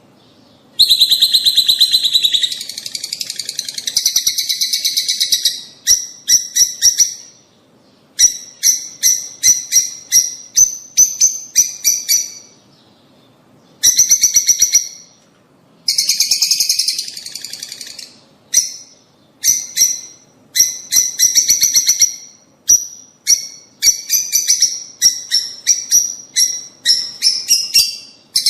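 Lovebirds chattering in bouts of rapid, shrill chirps, with short pauses between bouts. This is a breeding-stimulation call recording meant to encourage rosy-faced and Fischer's lovebirds to mate.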